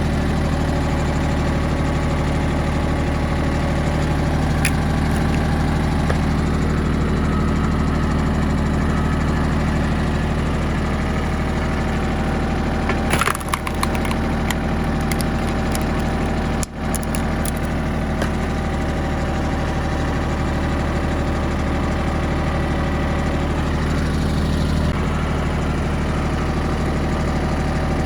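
Yanmar YM1820D compact tractor's three-cylinder diesel running steadily while it powers a hydraulic log splitter. About 13 seconds in there is a short cluster of sharp cracks as wood splits.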